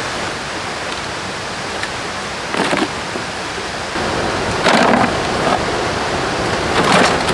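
Steady rush of running water, with three short, louder noises about two seconds apart.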